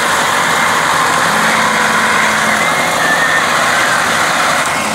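Ford 3610 tractor's diesel engine running steadily, pulling a loaded trolley stuck in mud.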